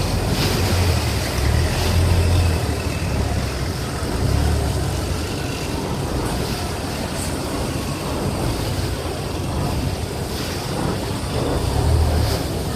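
River ferry under way: its engine runs with a steady low rumble that swells now and then, under a wash of wind on the microphone and water.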